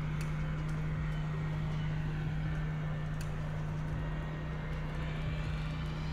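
Steady low hum with a low rumble beneath it and a few faint clicks.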